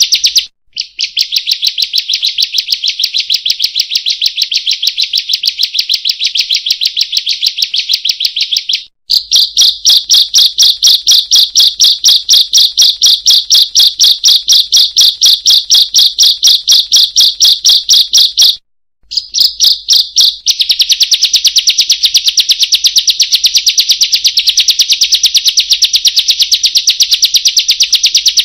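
Loud, fast, unbroken run of sharp 'kriek-kriek-kriek' calls from a ciblek, a small songbird, at about five notes a second. It breaks off briefly about nine and nineteen seconds in, then starts again.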